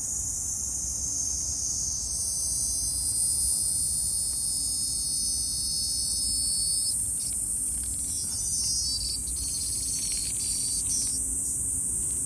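Cicadas singing: a steady, high-pitched buzzing chorus, with a rapidly pulsing call joining in about seven seconds in and stopping near eleven seconds.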